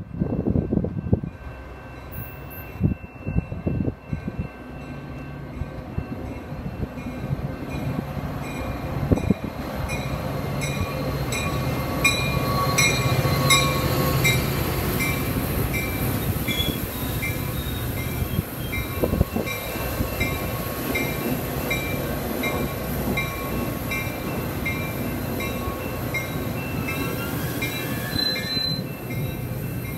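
Metra diesel commuter train passing on the middle track: the noise builds as it approaches, the locomotive's engine hum is strongest about a dozen seconds in, and the bilevel cars then roll steadily past with their wheels running on the rails. Wind gusts hit the microphone in the first few seconds, and a regular ringing tick repeats a little over once a second in the background.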